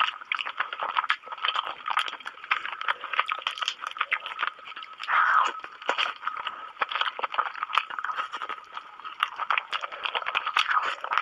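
Close-up mouth sounds of a person eating spicy noodles and chicken with her hands: wet chewing, smacking and crunching in a dense run of short clicks, with a longer, louder stretch about five seconds in.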